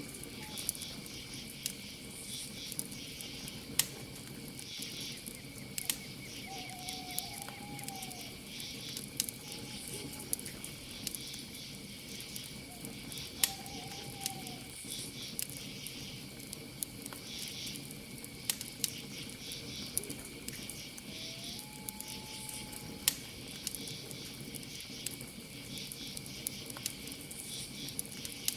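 Campfire crackling with frequent sharp pops over a steady high cricket trill and pulsing insect chirps. A few short owl calls come several seconds apart.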